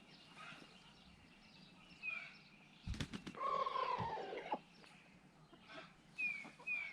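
Chickens calling: short, high, falling peeps now and then, and about three seconds in a louder drawn-out call that falls in pitch, just after a couple of sharp knocks.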